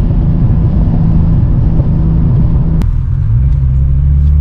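Big-turbo Nissan Skyline R34 GTT's RB25 turbocharged straight-six running under load, heard as a steady engine note. About three seconds in there is a sharp click, and then the note drops lower and begins to climb slowly again as the revs fall and build back up.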